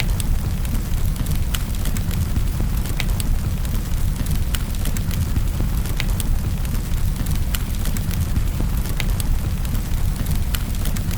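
Wood fire crackling, with irregular sharp pops over a steady low rumble, mixed with a continuous hiss of rain.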